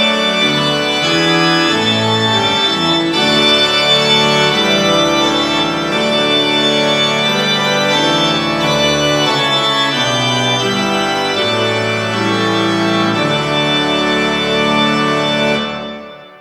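Organ music playing slow, held chords, fading out near the end.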